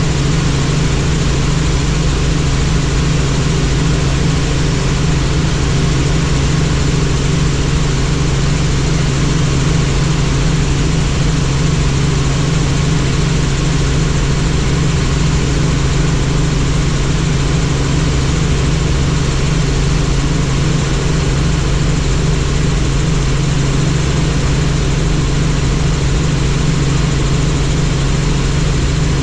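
Helicopter engine and rotors running in flight: a steady, unchanging drone with a strong low hum and a broad rushing noise above it.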